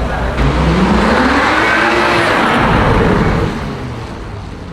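A car accelerating past, its engine note rising in pitch; it is loudest for about three seconds and then fades away.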